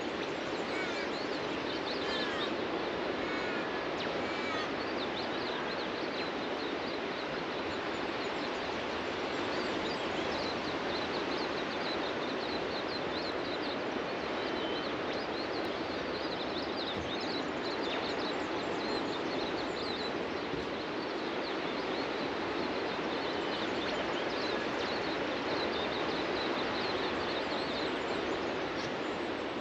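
Steady wash of ocean surf on a beach, with birds chirping over it: many short, high chirps all through and a few lower calls in the first few seconds.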